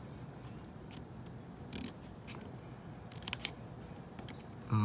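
Faint scattered clicks and scrapes of hands handling a door card and glue during repair work. A loud low steady hum starts right at the end.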